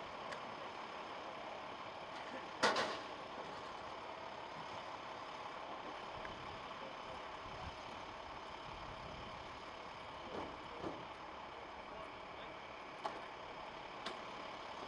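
Steady highway traffic noise, with one sharp clack about three seconds in and a few softer knocks later.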